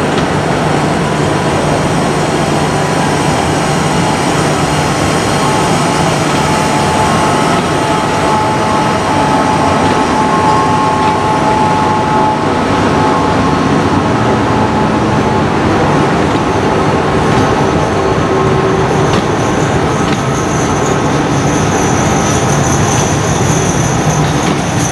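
Train running along the track: a steady, loud rolling rumble of wheels on rail, with a high whine coming in near the end.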